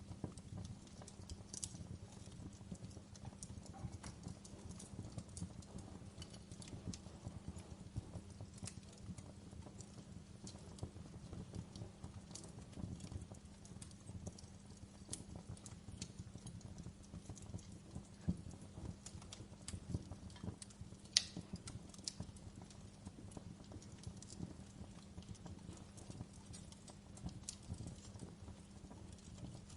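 Wood fire burning in a fireplace: a low, steady rumble of flames with frequent small crackles and scattered sharper pops from the burning logs, the loudest snap about two-thirds of the way through.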